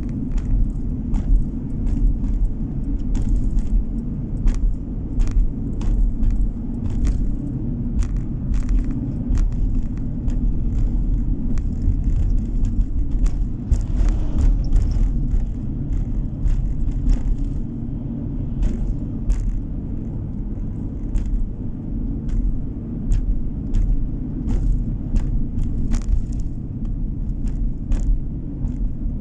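Car driving along a road, heard from inside the cabin: a steady low rumble of road and engine noise, with frequent light clicks and rattles coming irregularly, about one or two a second.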